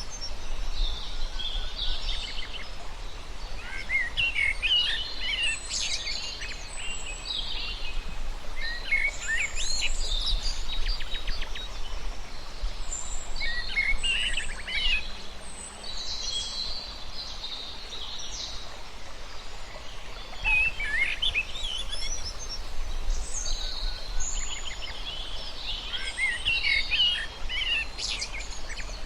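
Several birds chirping and calling over one another in quick, overlapping bursts of high, sliding notes, over a low steady rumble.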